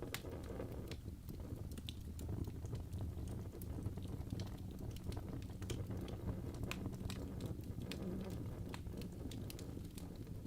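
Wood fire burning in a fireplace: irregular crackles and pops over a low, steady rumble of the flames.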